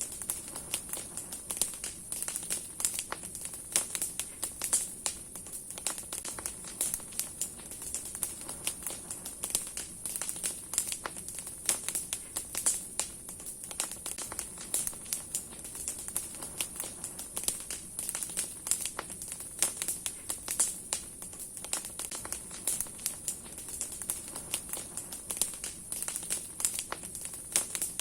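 Large wood bonfire burning strongly, its branches and firewood crackling and popping in dense, irregular snaps over a steady high hiss.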